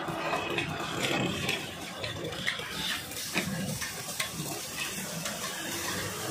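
Aloo-dal tikkis sizzling in oil on a large flat griddle, with a metal spatula scraping and tapping against the griddle now and then as they are turned.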